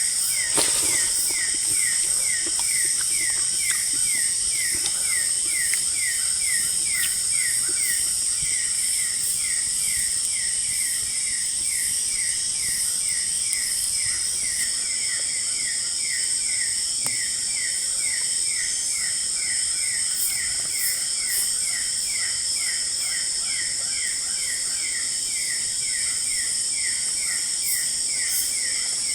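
Tropical forest at night: a steady high-pitched insect drone, with one caller repeating a short falling chirp about twice a second.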